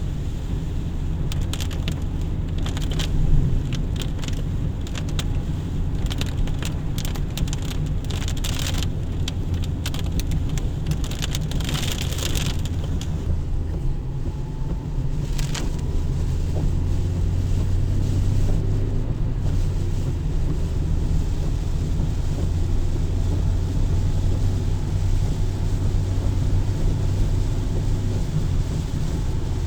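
Car on the road in the rain: a steady low rumble of engine and road noise, with scattered sharp ticks through the first half or so.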